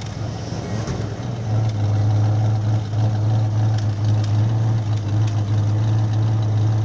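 1968 Ford Mustang's V8 engine idling through its exhaust with a steady low note. It grows louder about a second and a half in, then holds.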